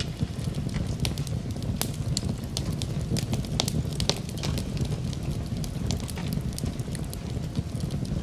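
Wood fire in a fireplace burning with a steady low rumble and many sharp crackles and pops, several a second.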